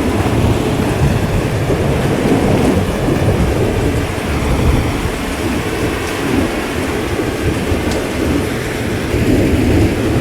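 Rain falling steadily under a continuous low rumble of thunder that swells and eases.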